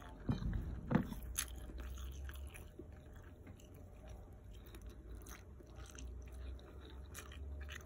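A person faintly chewing a mouthful of chicken and rice, with a few small mouth clicks and smacks that are sharpest in the first second and a half.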